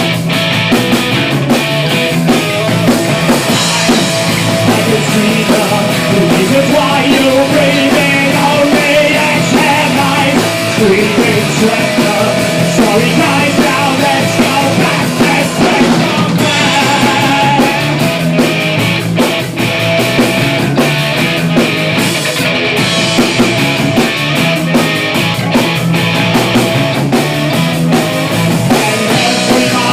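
Loud punk rock song with distorted guitars, drum kit and sung vocals.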